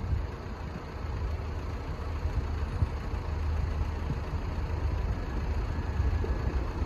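Northern Ireland Railways Class 3000 diesel multiple unit's engines running steadily with a low hum as the train stands at or creeps into the platform.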